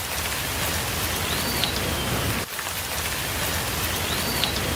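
Steady rain falling, a dense even hiss. A faint high chirp sounds twice, about a second and a half in and near the end.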